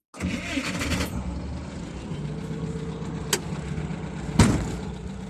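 GAZ Volga car engine running with a steady rattling drone, louder for its first second. A sharp click comes about three seconds in, and a loud thump near the end.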